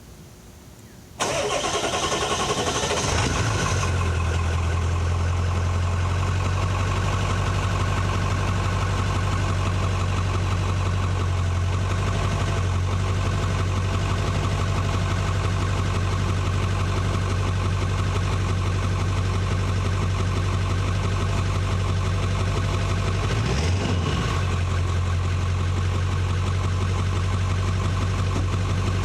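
1998 Ford F-250 engine cold-started: it fires about a second in, runs fast and uneven for a couple of seconds, then settles into a steady idle. The idle dips briefly a little past two-thirds through.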